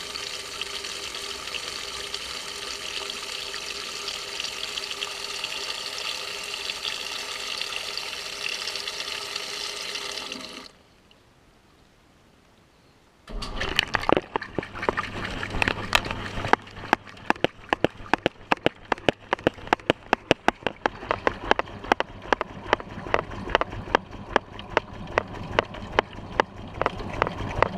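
Maytag washing machine heard from inside its tub: water rushing in steadily, then shutting off abruptly about ten seconds in. After a couple of seconds of quiet the motor starts, with a low hum and sharp regular knocks at about two or three a second as the tub and its load are driven.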